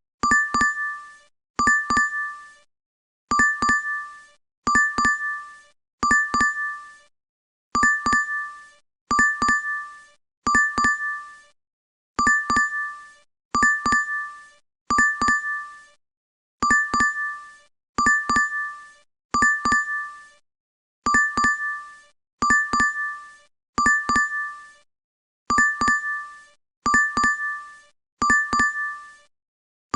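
DoorDash app notification chime played on a loop: a quick cluster of bright two-note dings, repeating about every second and a half with short silences between.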